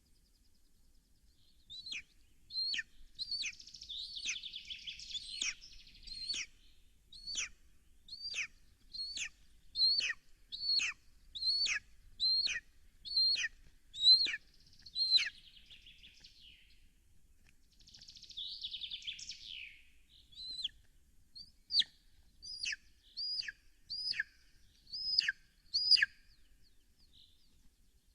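A bird calling in a steady series of short, high whistled notes, each flicking up and then sliding down, about one a second. Two stretches of rustling, one a few seconds in and one past the middle.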